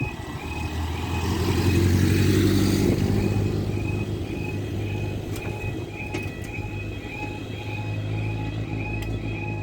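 Level crossing warning alarm sounding: a short high tone repeating about two and a half times a second. Under it runs the low hum of road vehicle engines, loudest as a vehicle passes about two seconds in.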